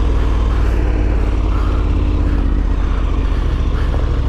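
KTM 1290 Super Adventure S motorcycle's V-twin engine running at a steady speed while riding off-road, under a heavy, steady low rumble.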